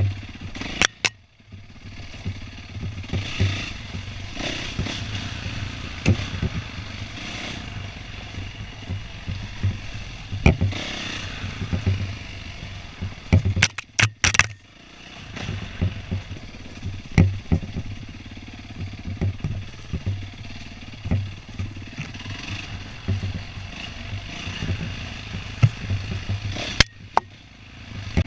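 Dirt bike engine running and rising and falling in loudness as the bike is ridden over a rough trail, with frequent knocks and rattles. The sound drops out briefly about a second in and again near the middle.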